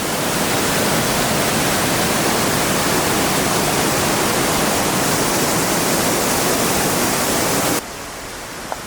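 Rushing creek water from Watson Falls, a steady loud rush that cuts off suddenly near the end, leaving a quieter, steady rush.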